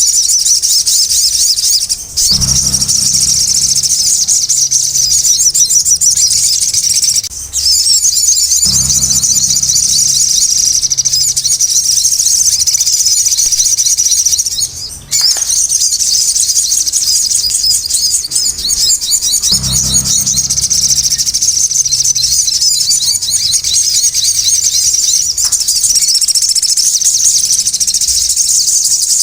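Sogon birds singing in a busy, continuous chatter of rapid high notes, with short breaks a few times.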